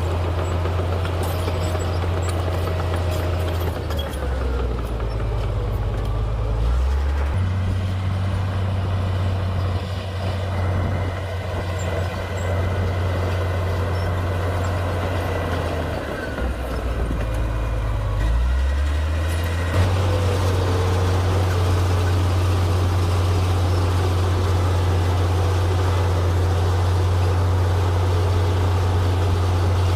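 Komatsu D58P bulldozer's diesel engine running with a steady low drone. Its pitch sags twice, about four seconds in and again around sixteen seconds, then picks back up.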